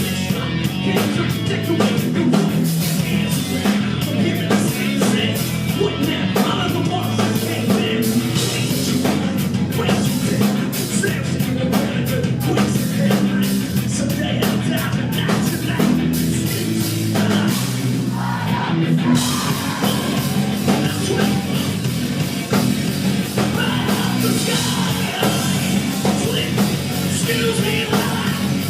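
Rock band playing live at full volume, drum kit driving under heavy guitars; the top end gets fuller about two-thirds of the way through.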